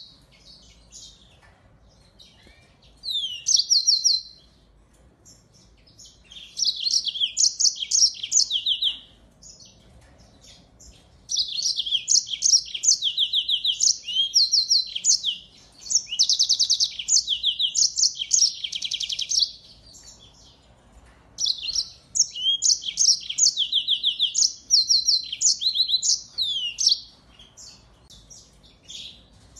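A small finch singing fast, high-pitched trilled and twittering phrases. The phrases come in bursts several seconds long, with short pauses between them.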